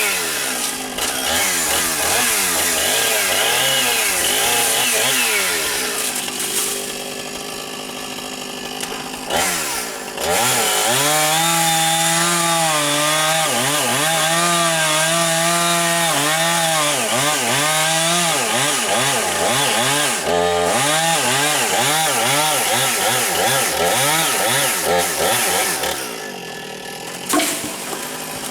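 Chainsaw running and cutting wood, its engine speed rising and falling under load. It drops back to a lower speed between about a fifth and a third of the way in, then runs hard again, easing off once more near the end.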